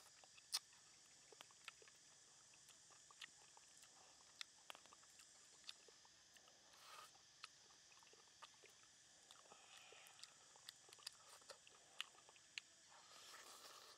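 A person eating fried salmon up close: faint chewing with scattered sharp mouth clicks and smacks, the loudest about half a second in.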